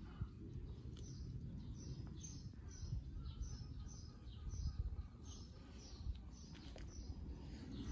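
A small bird chirping over and over, short high falling chirps about twice a second, over a steady low rumble of outdoor background noise.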